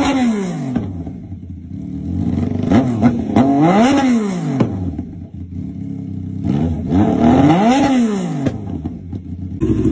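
Big-bike motorcycle engine blipped three times from idle: the pitch climbs and falls back in one rev just at the start, then in two more that peak about four and eight seconds in, dropping to a low idle between each.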